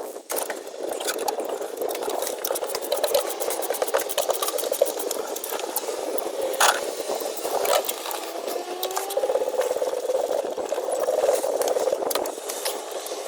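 Ratchet wrench working 10 mm intake manifold bolts loose on a Nissan Titan V8, with rapid ratchet clicking and tool handling, over a steady background hum. A short squeak about eight seconds in.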